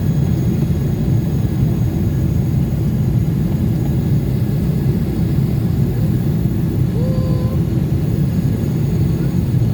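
Steady cabin noise of a Boeing 777 airliner in flight on its descent: engine and airflow noise heard from inside the cabin, deep and even throughout.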